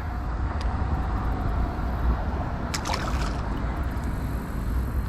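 Steady rush of river water with wind rumbling on the microphone, and a few brief clicks about three seconds in.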